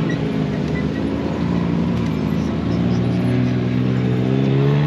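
Motorhome engine running under way in slow traffic, its pitch climbing steadily through the second half as the vehicle speeds up.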